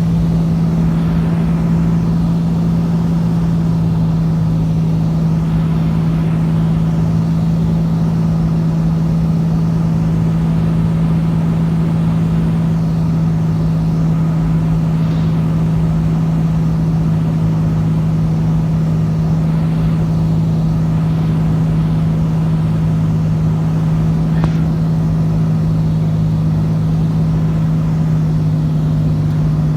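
Cessna 206's six-cylinder piston engine and propeller running with a steady, unchanging drone.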